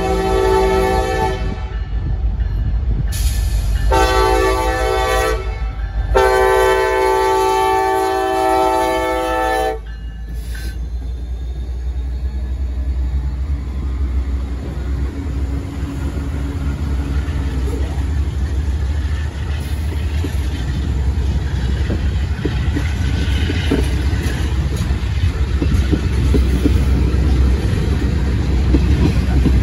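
Freight train's lead diesel locomotive sounding its chime air horn: a blast ending about a second and a half in, a short blast about four seconds in, then a longer one from about six to ten seconds. Then the locomotives pass close by, engines running, followed by freight cars rolling past with steady wheel clatter.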